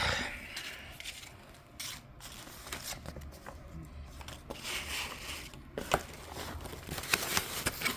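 Rummaging through a storage bin: irregular rustling and scraping with scattered light clicks and knocks as items are moved around.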